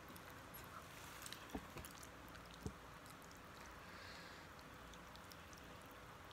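Near silence with faint mouth sounds of chewing instant noodles and a few soft clicks.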